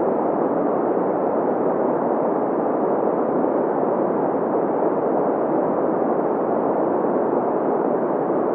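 Steady green noise: an even, unbroken hiss centred in the middle range, with little deep rumble and no high hiss.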